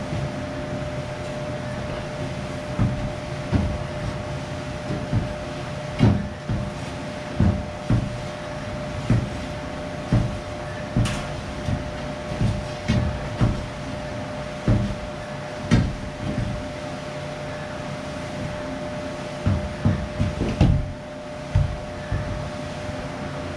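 Irregular knocks and thumps from work with tools and bagged concrete, some single and some in quick clusters, over a steady mechanical hum.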